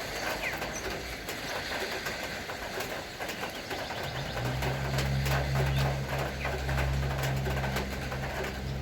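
Rain dripping and ticking. About four seconds in, a low, steady motor hum comes in and becomes the loudest sound.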